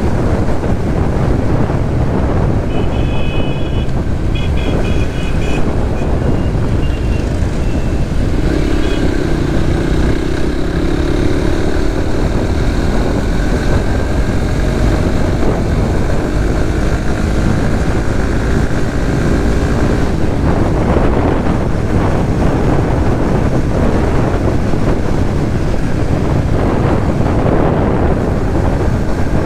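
Riding a Suzuki GSX-S150 motorcycle: steady wind rush on the microphone with the engine running underneath. Short high beeps repeat several times early on, and from about eight seconds in an engine's pitch climbs slowly for some ten seconds.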